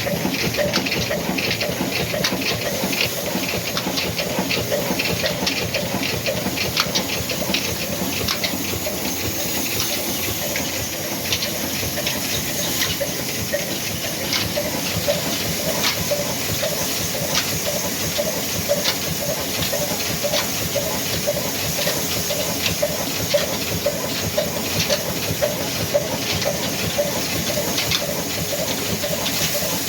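Old black diesel engine of the Ruston type running steadily, with a regular beat of about two pulses a second under a hissing, clattering mechanical noise.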